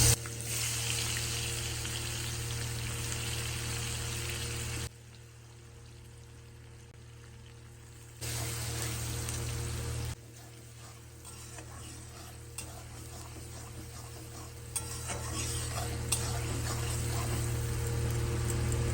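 Onions frying in hot oil in a pan, a steady sizzle with stirring and a few light spatula taps. The level drops and jumps back abruptly a few times.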